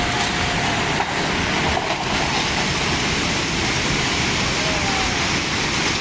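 Rushing floodwater: a loud, steady roar of water with no let-up.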